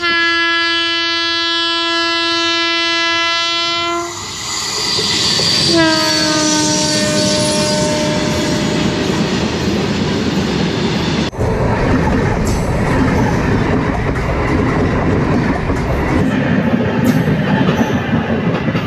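An electric passenger train sounds its horn in one steady blast of about four seconds, then a second blast that sags slightly in pitch as it passes close by. Then comes the loud rumble and clatter of its coaches and wheels going past on the rails.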